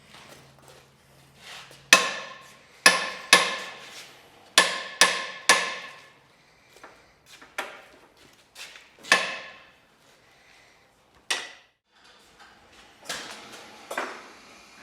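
Hammer blows on metal, each ringing briefly: six hard strikes in quick succession starting about two seconds in, then a few more spaced out.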